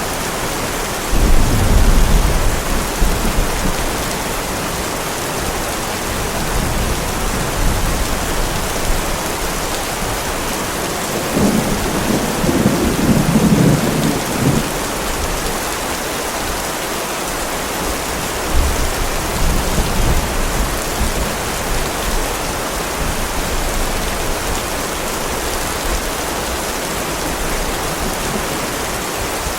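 Heavy rain falling steadily as a constant hiss, with thunder rumbling over it: a rumble about a second in, a louder rolling peal near the middle, and a weaker rumble about two-thirds of the way through.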